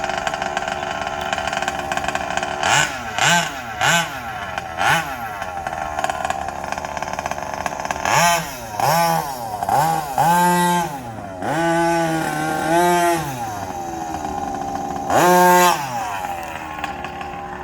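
Small two-stroke gas engine of a Rovan RFB 1/5-scale RC rally car idling, blipped up in a string of short revs that rise and fall back to idle: the engine being broken in on its first fuel.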